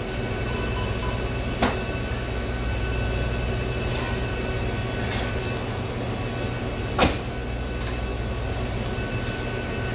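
Steady low air-conditioning hum with a few sharp clicks and knocks, the loudest about seven seconds in.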